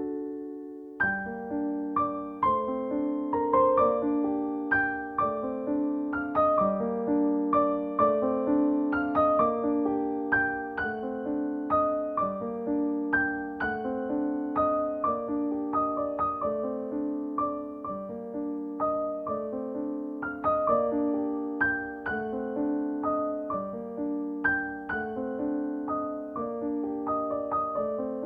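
Gentle solo piano music: a slow, calm melody over repeating broken chords in an even rhythm.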